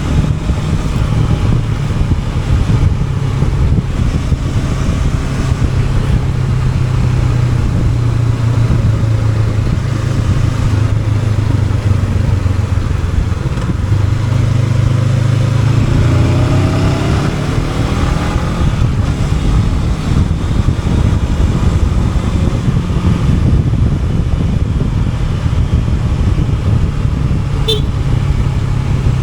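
Honda NX500 motorcycle's parallel-twin engine running on the move, with wind and road noise. About two-thirds of the way through, its pitch climbs as the bike accelerates.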